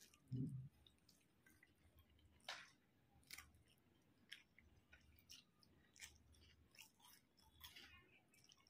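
Quiet close-miked chewing of rice and chicken curry, with scattered short wet clicks and a soft low thud just after the start.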